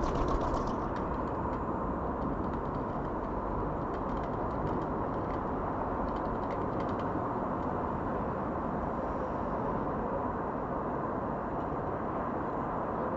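Steady outdoor background rumble, with a few faint ticks and taps near the start and again a few seconds in.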